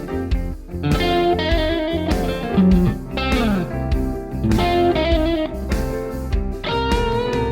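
Electric guitar playing bluesy licks on a 2005 Fender Deluxe Stratocaster with N3 Noiseless stacked-humbucker pickups. A run of single notes includes a note sliding down in pitch about three seconds in.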